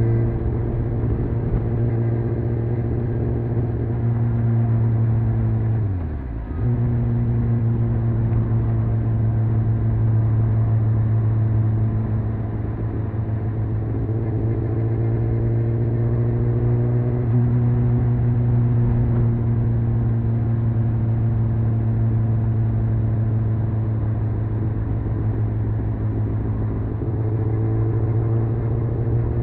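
Honda CBR600F inline-four engine running on the move at fairly steady revs. About six seconds in the pitch drops sharply for a moment and comes straight back, as when the throttle is shut and reopened. Later the revs climb gradually twice.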